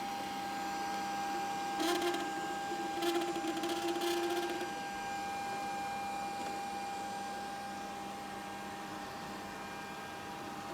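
Grundig VCR 2131 robot vacuum running with a steady motor whine. It turns louder and rougher briefly about two seconds in and again for about two seconds shortly after.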